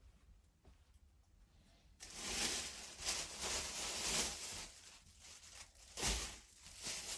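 Rustling, crackling and tearing noises from something being handled, starting about two seconds in, followed by a low thump near the end.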